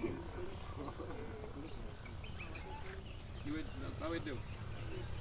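Several people's voices talking in the background over a steady low rumble.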